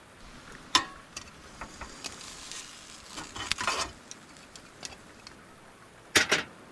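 Bread cooking in a pan: a short spell of sizzling and crackling, with small clicks and knocks of the pan and utensils being handled, and a sharp clatter about six seconds in.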